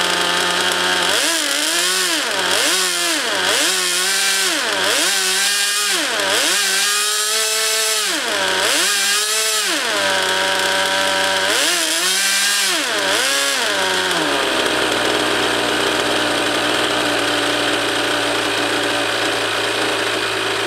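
Engine of an RC model jet on its first run, revving up and down about eight times in quick succession, then settling to a steady, lower idle about 14 seconds in.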